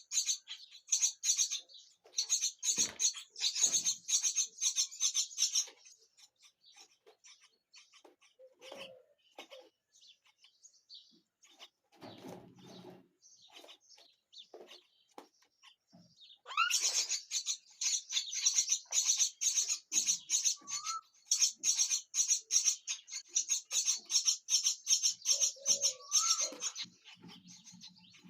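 Baby myna birds chirping: rapid, high, harsh calls repeated many times a second, in two long loud bouts with a quieter spell of scattered calls between them.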